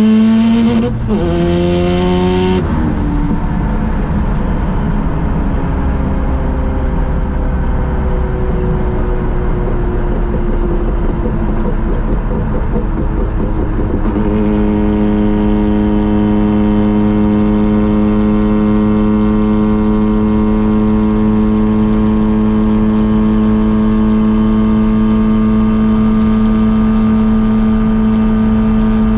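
Mazda RX-7 rotary engine and exhaust while driving. In the first few seconds the revs climb and then drop sharply. The note then falls slowly as the car eases off, and from about halfway it holds a steady pitch at a constant cruise.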